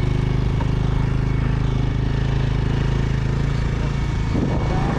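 A motorbike engine running steadily at an even, unchanging speed.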